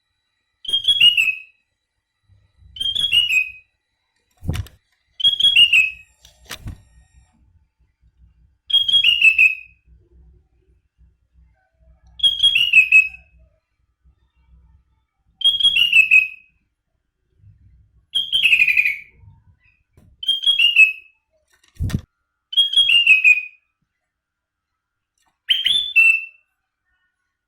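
Sooty-headed bulbul (kutilang) singing: a short, falling whistled phrase repeated about every three seconds, ten times over, with three sharp knocks in between.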